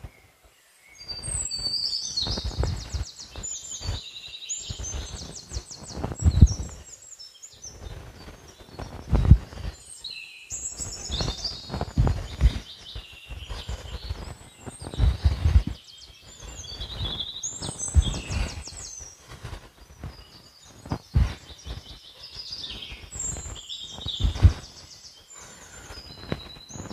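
A songbird sings four bouts of fast, high trilled phrases several seconds apart. Low thumps and rumbles come every few seconds and are the loudest sounds.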